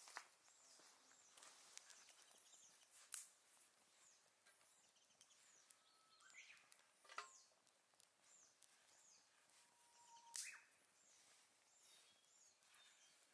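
Faint firewood crackling in a small solo fire grill: a few sharp pops a few seconds apart. Small birds chirp in the background.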